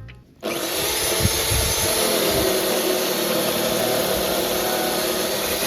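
A power tool starts about half a second in and runs steadily with a loud, even hiss.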